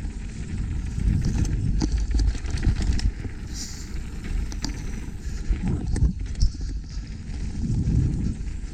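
Mountain bike riding over a rough dirt trail: the frame and parts rattle and knock over bumps, with wind buffeting the helmet or body camera's microphone as a constant low rumble.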